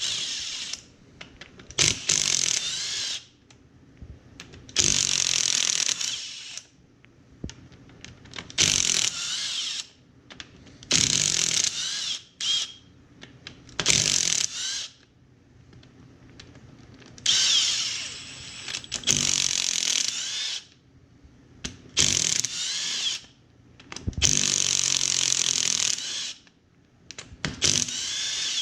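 A handheld power drill/driver spinning out bolts during a snowmobile engine teardown: about a dozen short bursts, each one to two seconds, with a whine that rises and falls as the motor spins up and slows, and brief pauses between bursts.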